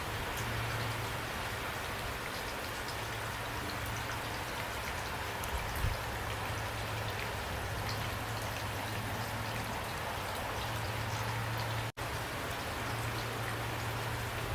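Steady rain falling, an even hiss with individual drops ticking through it and a low hum underneath. The sound cuts out for an instant near the end.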